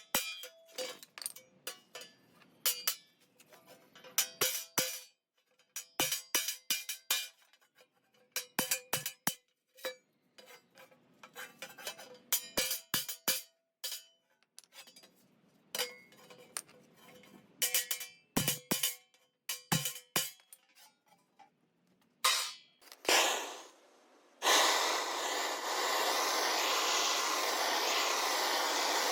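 A hammer striking a steel plate in quick runs of blows, each ringing with a metallic tone. Near the end, a loud, steady rushing noise starts suddenly and holds.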